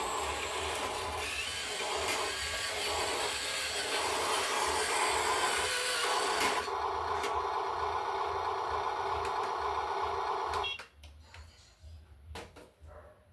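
A machine running steadily with a strong hiss, then stopping abruptly near the end, followed by a few faint clicks.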